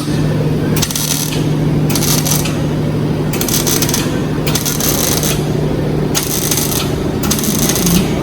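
Welding on car body metal in short bursts, about eight in a row with brief gaps between them, each under a second long, over a steady low hum.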